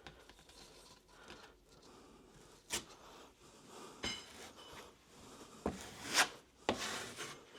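A drywall knife scraping and spreading cornice cement over paper tape in a joint, in short separate strokes with a few clicks of the blade.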